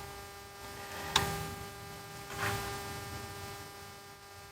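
Steady low electrical hum, with one sharp click about a second in and a softer brief scrape a little later, like small tools being handled at a workbench.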